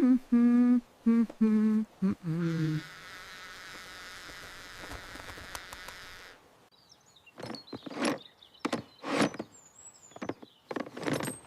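A voice humming a few short held notes, then a steady hiss for a few seconds, then a string of irregular taps and knocks.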